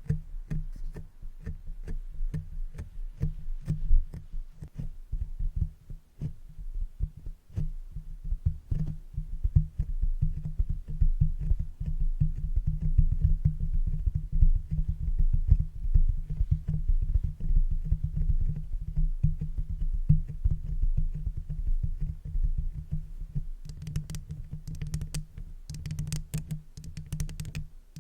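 Makeup brush brushing and tapping directly on a microphone: dense, rapid low thumps and rustling close on the mic. Near the end it turns to brighter, crisper scratching.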